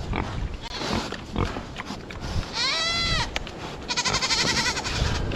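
Two livestock calls: a pitched bleating call about two and a half seconds in that rises and falls, then a longer, rougher call about four seconds in, over a low rumble of wind on the microphone.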